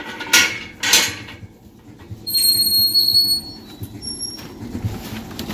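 Metal latches on a tractor trolley's door being unlocked: two sharp metallic clanks, then a high, steady whistling squeak for about a second and a shorter one after it.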